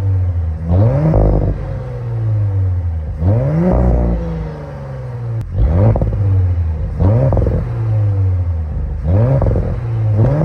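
2023 Audi S5's turbocharged 3.0-litre V6 revved in place through its active exhaust: about five quick throttle blips, each rising fast and falling back to idle.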